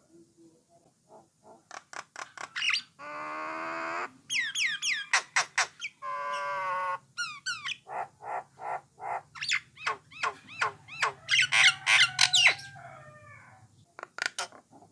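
Common myna singing a varied, fast string of short clicks, rising whistles and harsh rasping squawks, two of them long and buzzy.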